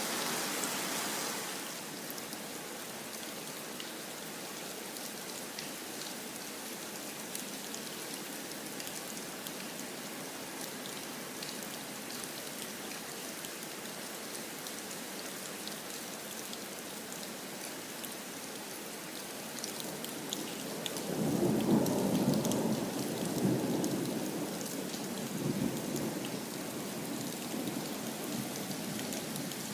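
Heavy, warm rain beating down steadily in a downpour. About two-thirds of the way through, a long low roll of thunder builds, loudest for a couple of seconds, then rumbles away.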